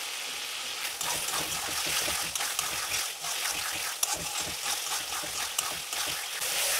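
Chopped ridge gourd sizzling in a kadai while a metal spatula stirs it, with scraping strokes against the pan from about a second in. The gourd is frying down in the water it has released.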